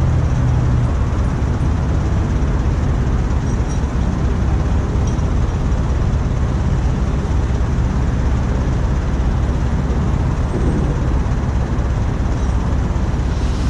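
Heavy diesel engine running steadily with a low rumble; a steady low engine tone fades out about a second in.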